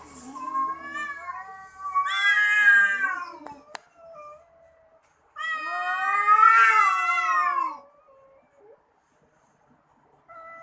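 Domestic cats yowling at each other in a fight standoff, with long, wavering caterwauls. A loud yowl comes about two seconds in, a sharp click follows shortly after, and the longest and loudest yowl comes in the middle. It goes nearly quiet near the end.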